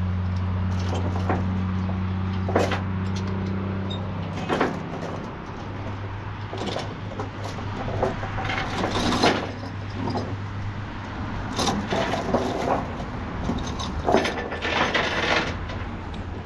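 Tie-down chains clinking and rattling in irregular bursts as they are handled, over a steady low hum whose higher tone drops away about four seconds in.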